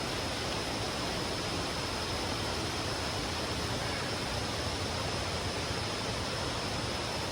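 Steady rush of flowing water from a stream or falls, an even hiss with a thin, steady high-pitched tone running above it.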